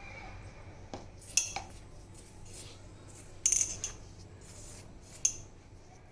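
Metal kitchen utensils clinking against dishes: a few sharp clinks, in pairs about a second and a half in and about three and a half seconds in, and one more near the end.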